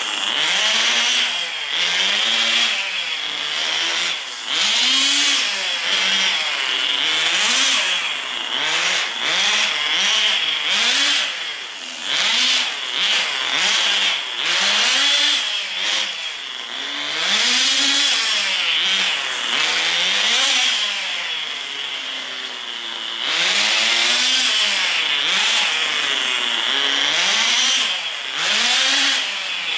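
Tamiya TGS 1/10 RC car's small nitro glow engine running in a light cool-down drive, a loud buzz whose pitch rises and falls every couple of seconds as the throttle opens and closes.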